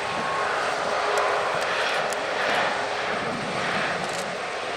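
Airliner engines running close by as the plane passes: a steady rushing noise, strongest in the middle, with a faint whine in the first second.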